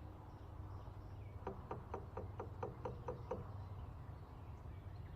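A spoon stirring coffee grounds in a French press pot, clinking against the pot about eight times in quick rhythm, roughly four a second, from about a second and a half in.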